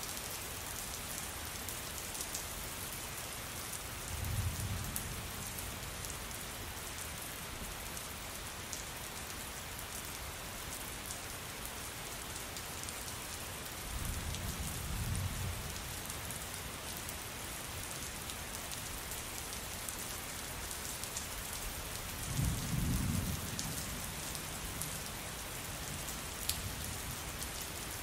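Steady rain falling, with three low rumbles of thunder spread through, each lasting a second or two.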